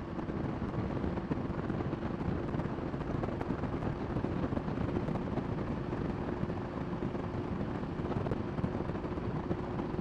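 Kawasaki Nomad 1600's V-twin engine running steadily, a constant hum under a rushing noise.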